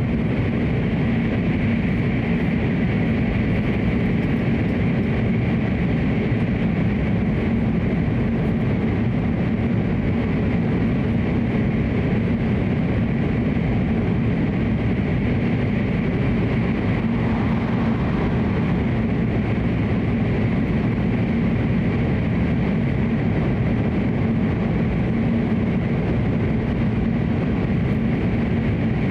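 Hokuriku Shinkansen train running, heard from inside the passenger cabin: a steady, even running noise that holds level throughout.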